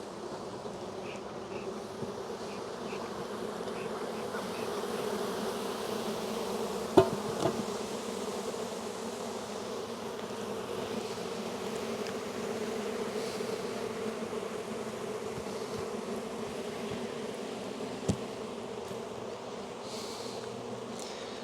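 Steady buzzing hum of a crowded honey bee colony in an open hive, with a few sharp knocks about a third of the way in and another later on.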